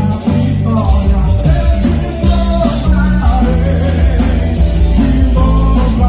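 A live band playing loud rock-style gospel music, with heavy bass and guitar.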